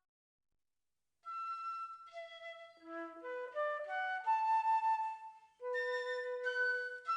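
Flute ensemble playing in several parts: after about a second of silence the voices enter one after another and overlap, then a long low note is held under higher notes near the end.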